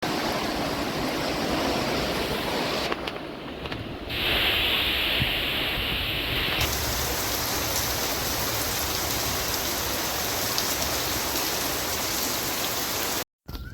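Heavy rain falling in a steady hiss. The sound changes briefly about three and four seconds in and again near seven seconds, then cuts off just before the end.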